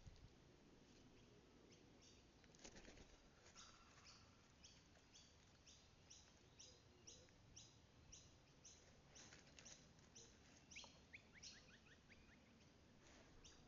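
Faint birdsong: short high calls repeated about twice a second, with a quick run of chirps from another bird later on.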